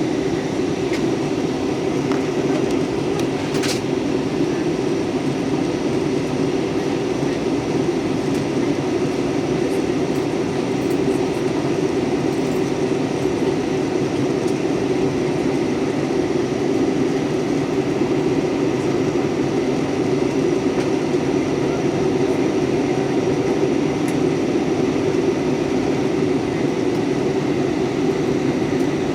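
Steady cabin noise inside a jet airliner: engine and airflow noise heard as an even low rumble, with faint steady high tones above it.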